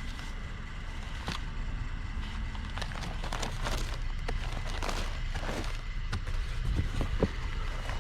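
Scattered clicks, knocks and rustles of objects being handled and moved, over a steady low rumble.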